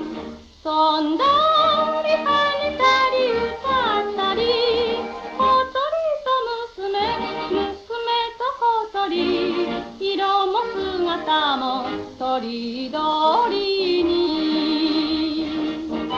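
A Shōwa-era Japanese popular song in which a woman sings a wordless, yodel-like passage with quick warbling trills over an instrumental accompaniment.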